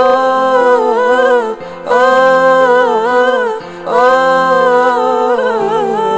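A woman singing a wordless, melismatic vocal line in an Arabic song: three long held phrases with vibrato, broken by short breaths, over steady sustained accompaniment tones.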